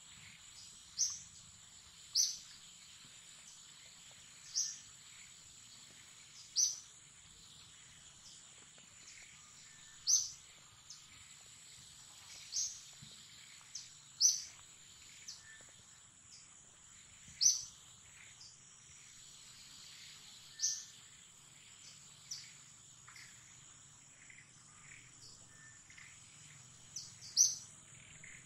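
A bird gives short, high chirps, one every one to three seconds, over a steady high-pitched drone of insects in forest undergrowth.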